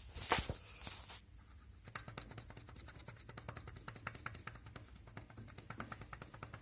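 A piston in a Honda R18A2 cylinder knocking against the bore wall in its working position, a quick run of light clicks with a couple of scrapes in the first second: the sign of excess piston-to-wall clearance in a scuffed, worn cylinder.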